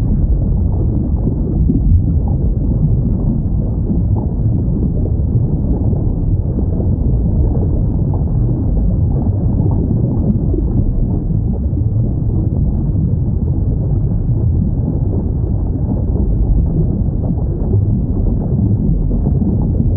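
Steady, deep underwater rumble from a whale-sounds ambience recording, with no distinct whale call standing out.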